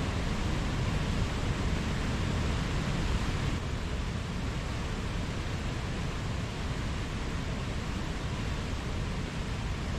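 Mountain stream water rushing steadily over rocks, a continuous even wash of noise, slightly softer from about three and a half seconds in.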